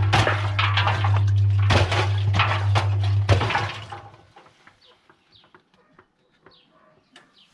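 Washing machine drum turning with a steady motor hum, water sloshing and objects knocking around inside. It winds down and stops about halfway through, leaving near silence with faint drips and ticks, and the motor starts up again at the very end.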